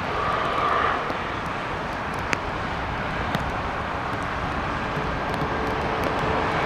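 Jet airliner engine noise, steady and even, with a brief higher tone in the first second and a single sharp click a little over two seconds in.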